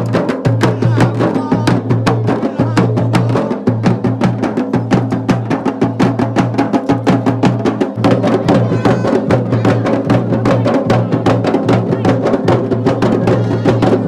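Music driven by fast, steady drumming, with rapid even beats over a constant low tone.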